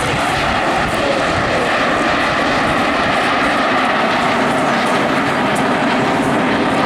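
Jet Provost T1 trainer's turbojet engine running steadily in flight: a loud, even rushing noise with a faint whine in it.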